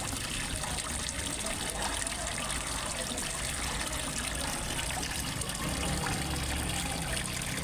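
Water trickling and splashing steadily into a fish pond, with a low rumble underneath.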